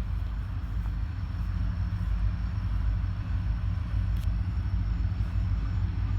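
Steady low rumble of a Kiamichi Railroad train's diesel locomotives at a grade crossing.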